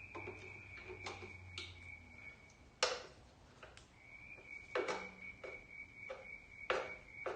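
Irregular sharp clicks and knocks of hand tools and metal parts at a carburetor being unbolted from a small engine, roughly one every half second to second, the loudest about three seconds in. A faint steady high whine sits behind them.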